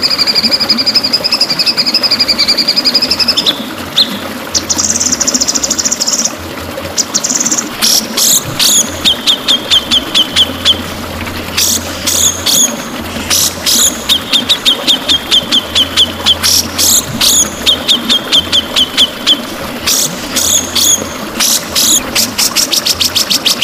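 White-rumped shama (murai batu) singing: a long wavering whistle, then a buzzy trill, then a run of sharp loud notes, each followed by a rapid rattling trill, ending in a fast stuttering series near the end.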